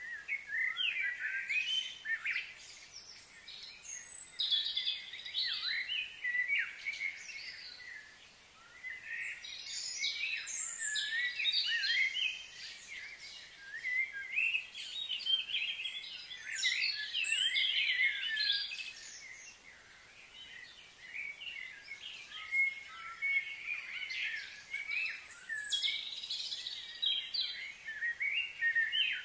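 Birds singing, a jumble of quick, high chirps and trills that comes in several spells with short lulls between them.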